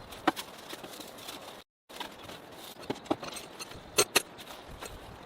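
A few short clicks and knocks of gear being handled, two of them close together about four seconds in, over a steady low hiss.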